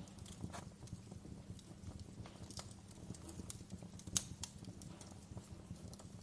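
Wood fire crackling: irregular pops and snaps over a steady low hum, with one sharper pop about four seconds in.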